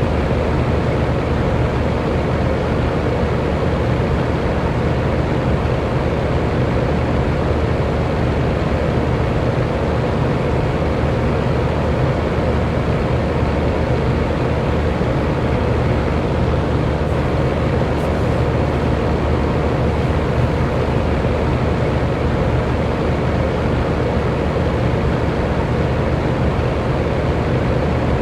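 Electric fan running steadily: an even rush of air over a steady low motor hum, unchanging throughout.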